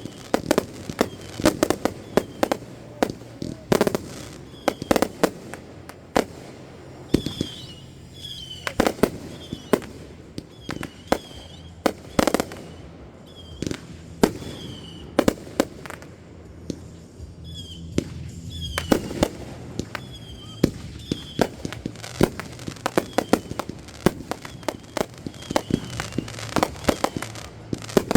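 Fireworks going off in a long barrage, many sharp bangs and pops in quick, uneven succession.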